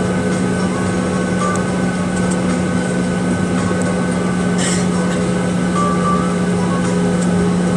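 Boeing 737-800 cabin noise: the CFM56-7B jet engines running with a steady loud hum and a few held tones above it. A brief brushing noise about four and a half seconds in.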